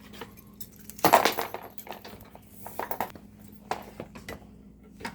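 Metal parts of a belt-drive garage door opener's rail and belt assembly clinking and clattering as they are handled and fitted together. The loudest clatter comes about a second in, followed by a few lighter clinks.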